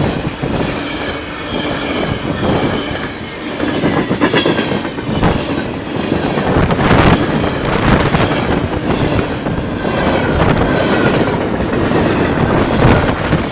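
CN freight train's cars rolling past at close range, a steady rumble with wheels clacking over the rail joints and a faint high squeal of wheels on rail.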